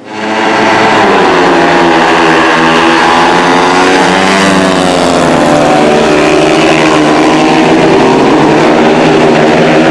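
Race car engine running hard at high revs: a loud, steady drone whose pitch wavers slightly up and down, starting abruptly.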